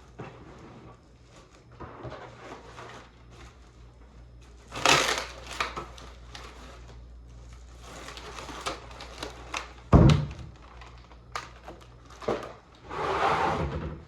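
Kitchen handling noises while cooking: scattered knocks and clatter, a sharp thump about ten seconds in and a longer scraping burst near the end, over a steady low hum.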